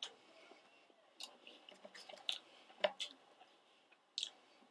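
Faint chewing of fried chicken nuggets: scattered wet mouth clicks and small crunches, the loudest about three seconds in.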